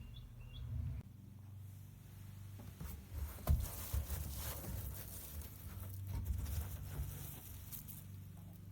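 Rustling and scraping as the humidifier's basin is handled and wiped, with a sharp knock about three and a half seconds in, over a steady low hum.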